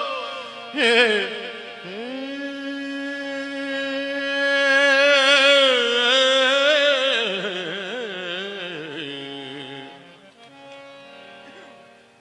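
Sikh kirtan: a male ragi singing a long, drawn-out wordless note with vibrato over harmonium, the melody winding down and fading near the end.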